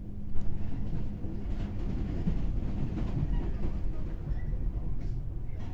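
Running noise inside a JR West 103 series motor car on the move: a steady low rumble of wheels on rail and the MT55 traction motors. It jumps sharply louder about a third of a second in and stays at that level.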